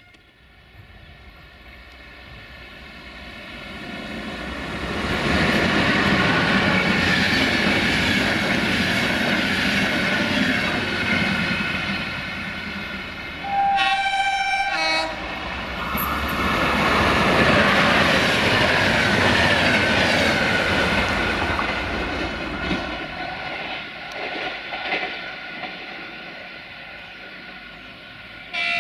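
A passenger train passing close by, its rumble and wheel noise building over the first few seconds, staying loud, then fading away. About halfway through it sounds one short horn blast of about a second and a half.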